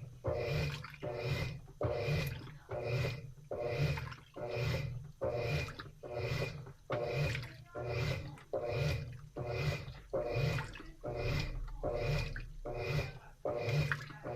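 Washing machine agitating during the wash: water swishes back and forth in the tub in an even rhythm, about three strokes every two seconds.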